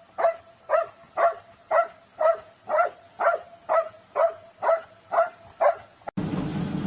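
A dog barking over and over in a steady rhythm, about two barks a second, a dozen barks in all. Near the end the barking gives way to a steady rushing noise.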